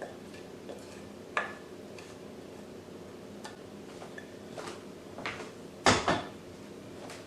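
Hot caramel being poured from a saucepan into a baking pan: a few separate clinks and knocks of cookware, the loudest pair near the end.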